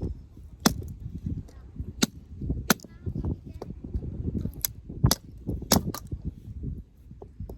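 A series of sharp knocks, about seven at uneven intervals, over a constant low rumble of wind on the microphone.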